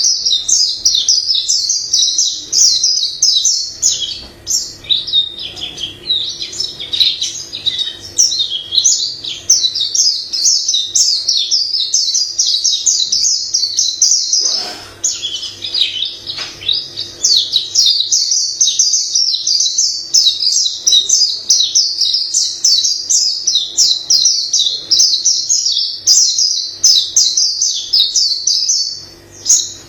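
White-eye singing a long, rapid, varied song of chirps and warbled phrases, high-pitched and nearly unbroken, with one short pause about halfway through.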